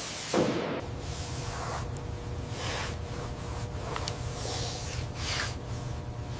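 Paint spray gun hissing in several short bursts over a steady low hum.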